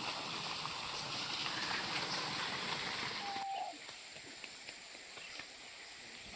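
Faint outdoor background hiss that drops to a quieter level about three and a half seconds in, with one brief high note just before the drop.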